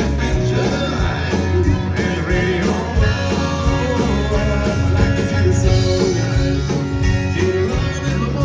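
Live country-rock band playing, with drums, bass guitar, and acoustic and electric guitars.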